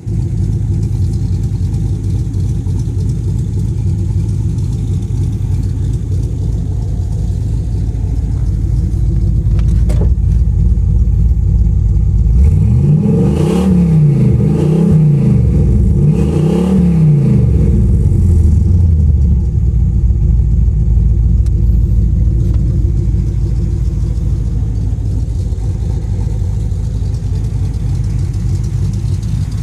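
Car engine idling steadily, revved in three quick blips about halfway through, each rising in pitch and falling back to idle.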